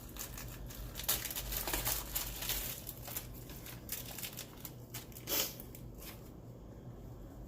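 Plastic food packaging crinkling and rustling as ingredients are handled, with scattered light taps, busiest in the first half and with one sharper knock about five seconds in.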